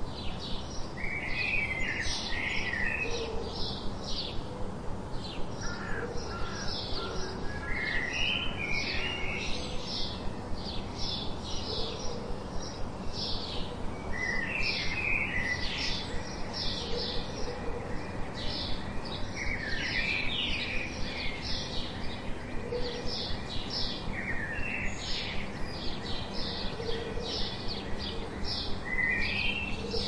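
Birds calling: short high chips repeated evenly at about three a second, with a short warbling phrase every few seconds.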